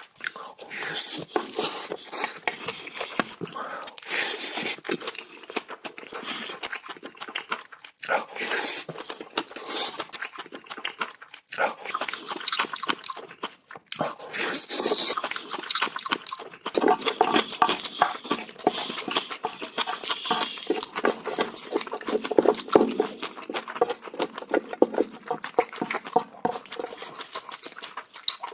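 Close-miked eating of bibimbap: wet chewing and lip smacking, a dense run of small clicky mouth sounds, with a few short hissing bursts now and then.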